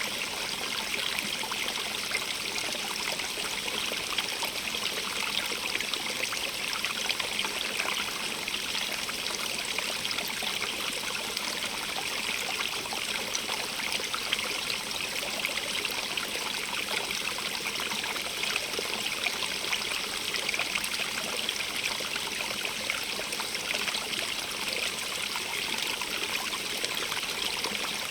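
Small stream running steadily over stones, a continuous hiss of rushing water with fine splashing and trickling detail.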